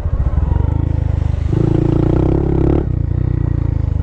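Honda Monkey's single-cylinder four-stroke engine running as the bike rides along, its note rising on the throttle about one and a half seconds in and falling back after about a second.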